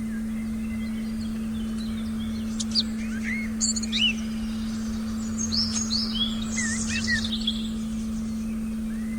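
Forest birds chirping and whistling over a steady, unbroken low tone, the meditation frequency. The bird calls come in a busy run of short chirps from about two and a half seconds in until near the end.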